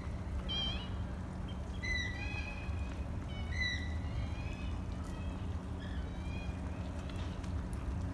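Birds calling in short, whistled, gliding notes, several times over a few seconds, above a steady low rumble.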